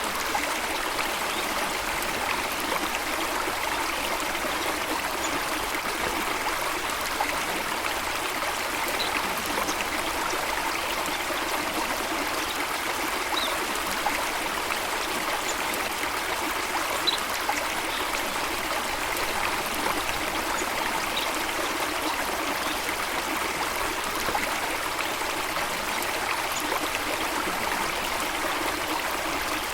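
Running water, a steady, even rush and trickle with no change in level, with a few faint, brief high-pitched sounds scattered through it.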